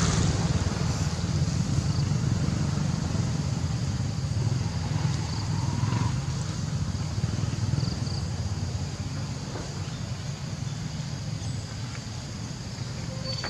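A motor vehicle running steadily, a low rumble under an even hiss, slowly fading away.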